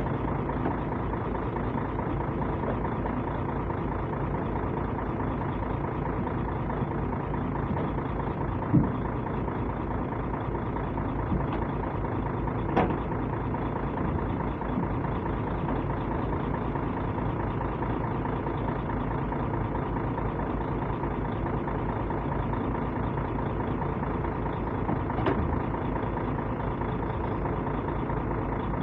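Heavy diesel engine idling steadily, with a few brief knocks scattered through it.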